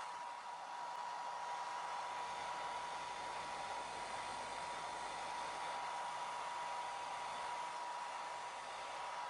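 Hair dryer running steadily on a cat's coat after her bath: an even rush of air with a steady whine on top.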